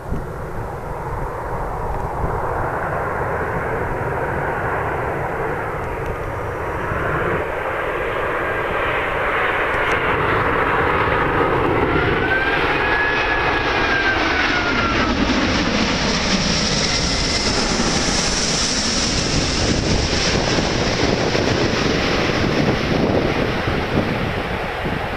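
Jet noise from the four Rolls-Royce Trent 970 turbofans of an Airbus A380-841, growing louder about a third of the way in. A high whine builds through the second half, and tones glide up and down in pitch as the aircraft moves. Wind buffets the microphone underneath.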